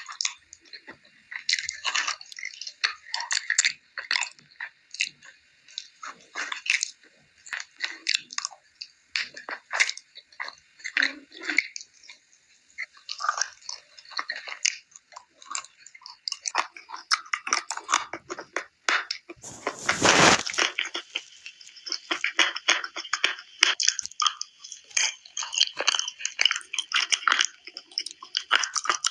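A person biting and chewing dark blue Uzbek clay: a dense run of sharp crunches and crackles, with one louder, longer crunch about twenty seconds in.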